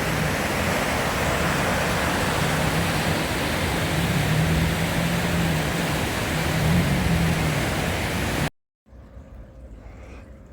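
Steady hiss of rain, with a faint low hum under it. It cuts off suddenly near the end, giving way to much quieter outdoor sound.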